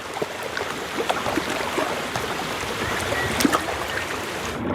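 Fast-flowing mountain stream running over stones: a steady rush of water with a few faint clicks.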